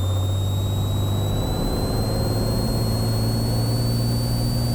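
Cessna 182T's six-cylinder Lycoming IO-540 engine and propeller at full takeoff power on the takeoff roll: a steady drone whose pitch steps up slightly about a second and a half in. A thin high whine rises slowly in pitch above it.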